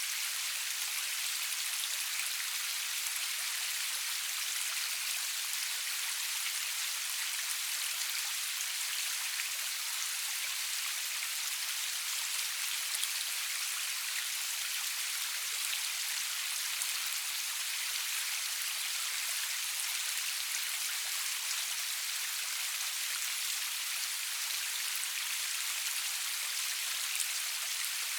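Steady rainfall: a dense, even hiss of many drops, with no thunder or music.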